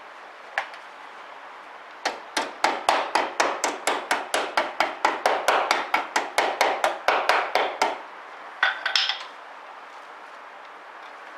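Hammer tapping on sheet steel: one tap, then a steady run of about thirty quick strikes, roughly five a second, and a short flurry of a few more near the end.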